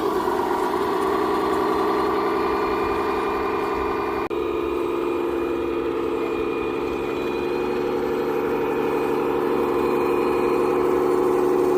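Radio-controlled construction model machinery running with a steady motor or pump whine. There is a short break about four seconds in.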